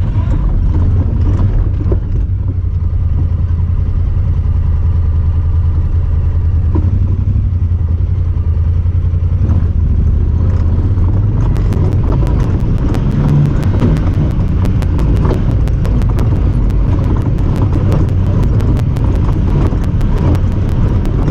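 Honda Talon 1000R side-by-side's parallel-twin engine running steadily while driving. From about halfway through, a rapid, continuous ticking sits over the engine, which the uploader puts down to the camera rather than the machine.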